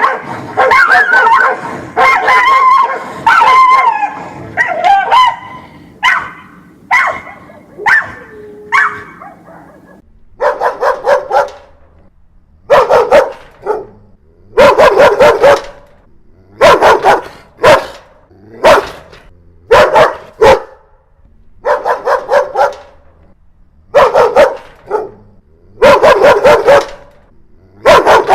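Dogs barking aggressively. For about the first ten seconds the barks overlap thickly, then they come in short clusters of two to four loud barks separated by brief pauses.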